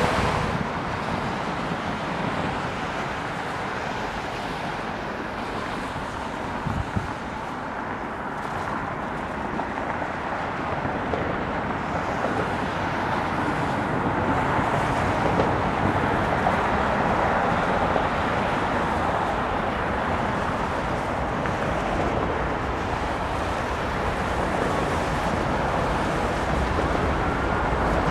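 Boeing 717-200's twin Rolls-Royce BR715 turbofan engines on landing approach: a steady jet rumble that swells gradually toward the middle and then holds.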